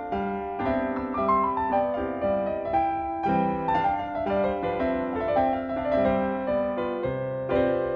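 Background piano music: a melody of separate notes over lower bass notes.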